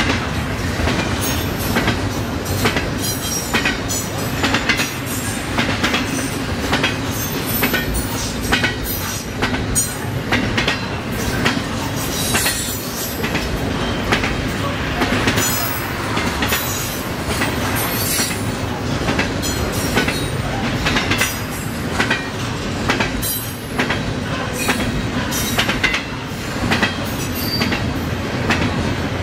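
Railroad cars rolling past close by: a steady rumble of wheels on rail, broken by frequent sharp clicks as the wheels cross rail joints.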